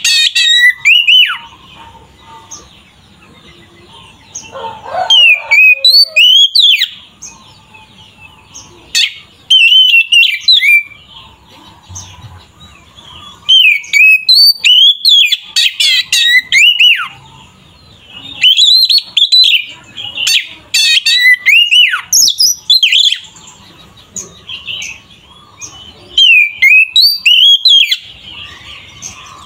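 Oriental magpie-robin (kacer) in full, loud song: phrases of rich slurred whistles and rapid chirps, each a second to a few seconds long, broken by short pauses.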